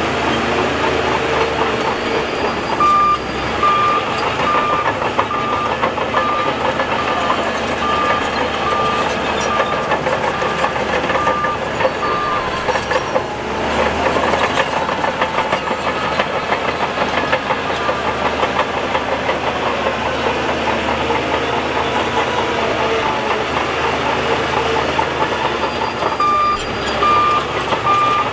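Heavy tracked bulldozer (Shantui DH17C2) working, its diesel engine running under load with steady clanking from the steel tracks. A reversing alarm beeps steadily at about one and a half beeps a second for roughly ten seconds, stops, then starts again near the end.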